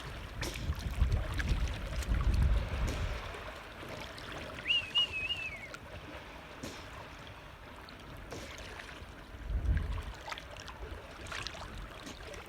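Water lapping and trickling at the surface, with a low rumble of wind on the microphone in the first three seconds and again around ten seconds in. A short, high, wavering call sounds once about five seconds in.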